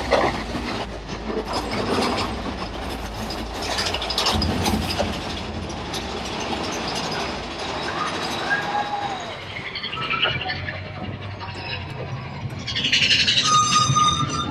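Disneyland Railroad passenger train running, its wheels clacking and rumbling on the track as heard from a riding car. Near the end comes a louder stretch with high, steady ringing tones.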